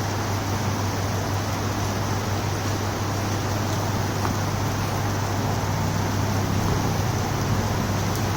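Heavy rain falling, a steady dense hiss with a low steady hum underneath.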